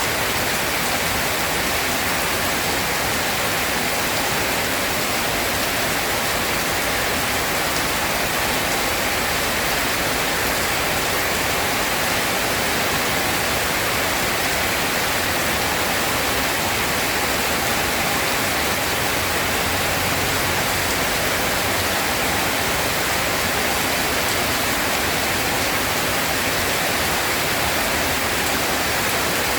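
Steady rain falling, an even hiss with no let-up and no thunder.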